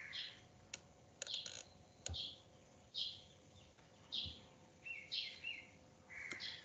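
A bird chirping faintly in the background, short high chirps about once a second, with a few soft clicks in the first couple of seconds.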